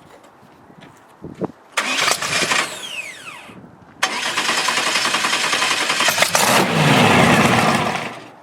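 Front-engine dragster's engine running very loud in two bursts: one about two seconds in with its pitch falling before it cuts off, then a longer one from about four seconds that falls in pitch and fades near the end.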